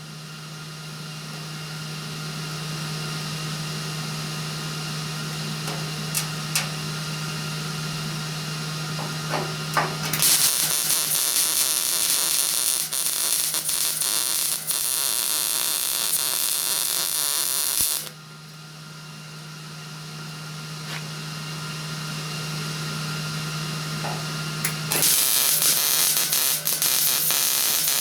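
Arc welder laying beads on replacement rocker-panel sheet metal: two long runs of steady crackling hiss, one starting about ten seconds in and stopping sharply about eight seconds later, the second starting near the end. Between the runs there is a low steady hum with a few clicks.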